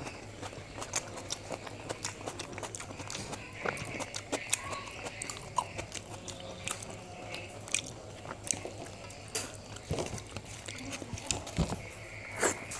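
A man eating by hand: chewing and lip smacks as many small wet clicks, with his fingers gathering rice on a steel plate, over a low steady hum.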